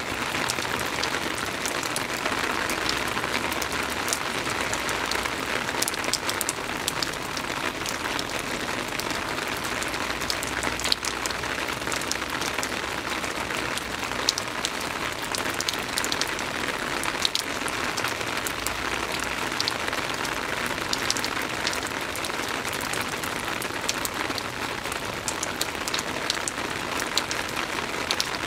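Soft rain falling steadily: an even hiss with many individual raindrops ticking sharply through it.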